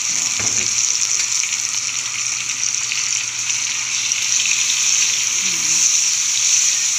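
Raw shrimp sizzling steadily in hot oil in a wok with browned pork, garlic and onion, stirred with a metal spatula.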